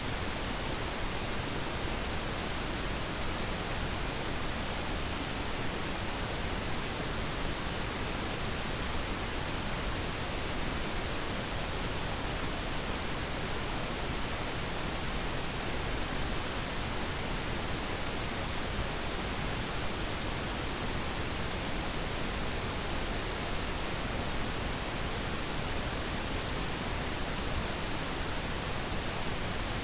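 Steady pink noise: an even, unchanging hiss with no other sounds.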